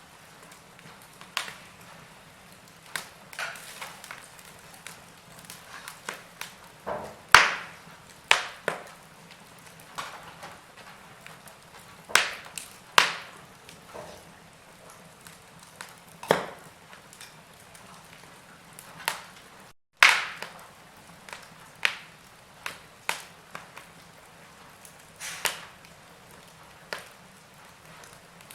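Wood fire in a fireplace, logs crackling and popping at irregular intervals over a faint steady hiss. There is a split-second dropout just before the loudest pop, about two-thirds of the way through.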